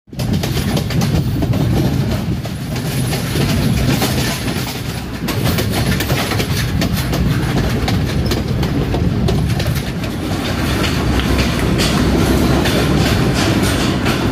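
Passenger train rolling along the track, its carriage wheels clattering over rail joints in a steady stream of clicks above a continuous low rumble, heard from the open doorway of a moving carriage.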